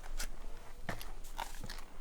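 Footsteps crunching on a dirt trail: a few uneven, sharp steps.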